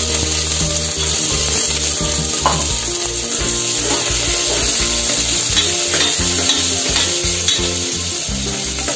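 Sliced onions, whole spices and green peas sizzling as they fry in ghee in an open pressure cooker, stirred with a ladle.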